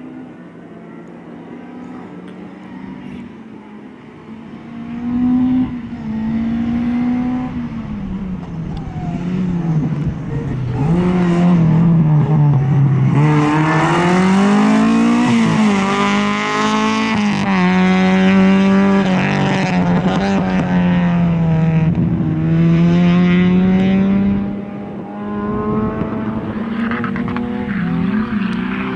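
Opel Astra 2.0 race car's four-cylinder engine run hard, its pitch rising and falling over and over with gear changes and lifts off the throttle. It grows louder about 5 seconds in, is loudest from about 11 to 24 seconds in as the car passes close, then drops.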